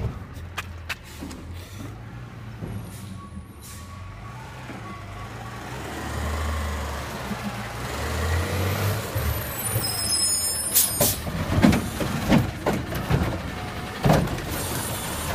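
Garbage truck's diesel engine running, growing louder about six seconds in, then a hiss like air brakes and a series of sharp knocks and clunks near the end.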